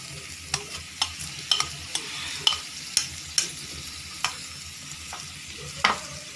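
Spiced samosa filling sizzling in hot oil in a pan while a spatula stirs it, with about ten sharp taps and scrapes of the spatula against the pan.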